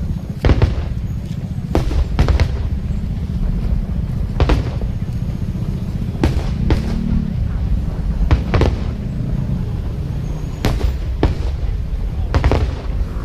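Aerial fireworks bursting: sharp bangs every second or two, some in quick pairs, over a continuous deep rumble of the barrage.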